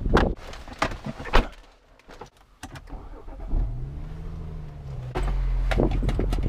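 A few clicks and knocks, then the BMW 335xi's turbocharged straight-six starts about three and a half seconds in. Its revs flare up and settle back, and it runs steadily, louder from about five seconds in.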